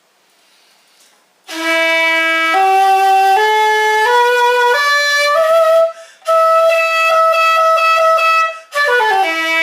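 Ostrich-bone shakuhachi played: starting from its lowest note, it climbs a scale one note at a time, breathes once, holds a long note, then runs quickly back down to the bottom note. Played to show how the instrument holds its pitch.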